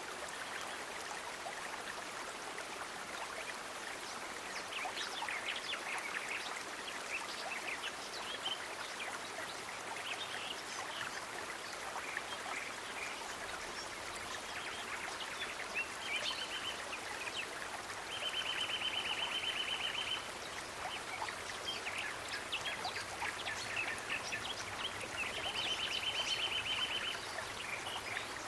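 Running water of a stream, with birds chirping. A high, rapid trill sounds three times, each for about two seconds: near the middle, shortly after, and again near the end.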